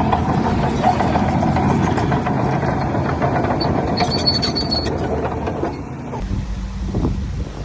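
Heavy diesel earthmoving machinery working, its engine running under load with dense rattling and clanking. There is a brief high squeal about four seconds in. The noise drops to a lower, steady engine hum about six seconds in.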